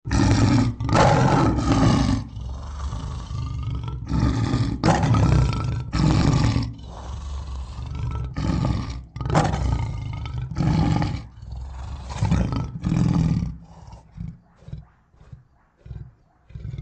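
Lion roaring bout: a series of long, loud roars, followed near the end by shorter grunts that grow fainter and trail off.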